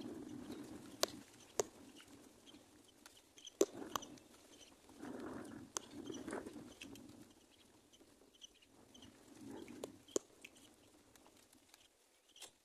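Birds calling: low clucking calls that come and go, faint short high chirps, and several sharp clicks scattered through.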